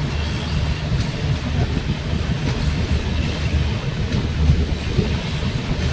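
Express train running, heard from a coach beside its end-on-generation power car: a steady low drone from the generator sets over the running noise of the wheels on the rails.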